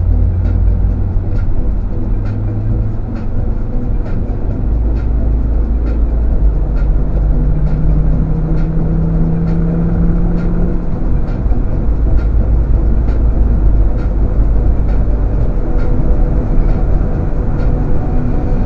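Interior sound of a Volvo S80's 2.5-litre five-cylinder turbo diesel under way at motorway speed, a steady low drone over tyre and road rumble. The engine note climbs a little partway through as the car accelerates. A light, regular tick recurs a little under twice a second.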